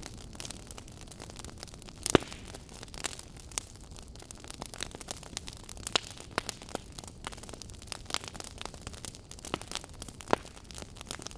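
Campfire crackling: irregular wood snaps and pops over a low steady hiss, with a loud sharp snap about two seconds in.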